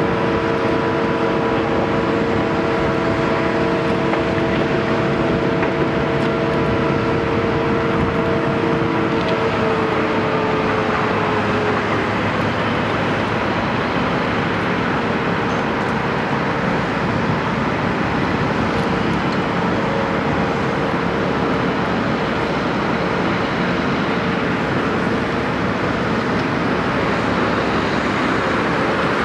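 Caterpillar 329E hydraulic excavator running under load, a steady engine and hydraulic noise. A whine of several steady tones sounds over it, then drops slightly in pitch and fades about ten to twelve seconds in.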